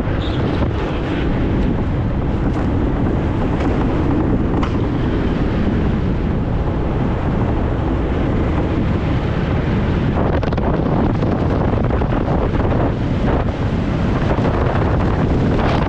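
Wind rushing over the on-board microphone of an engineless gravity race car rolling at speed, with a steady low rumble and scattered short knocks and rattles.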